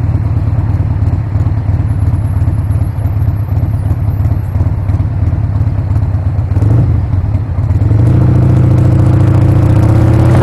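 Harley-Davidson Sportster V-twin engine running low and steady, then about eight seconds in it gets louder and its pitch climbs steadily as the bike accelerates.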